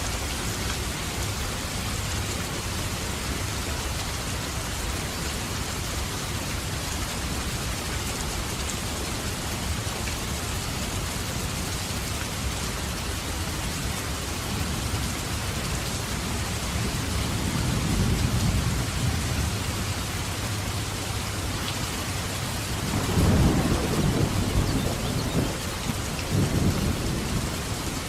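Steady heavy rain with rolls of thunder: a low rumble swells about two-thirds of the way through, then a louder thunderclap rolls and rumbles for several seconds near the end.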